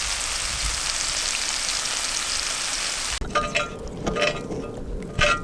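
Goose breast steaks frying in a pan over a campfire: a steady hissing sizzle. About three seconds in it cuts off abruptly, and a few light clinks and taps follow.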